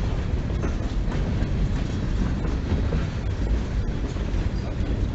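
Freight train cars (tank cars and a gondola) rolling past: a steady low rumble with wheels clacking over the rails.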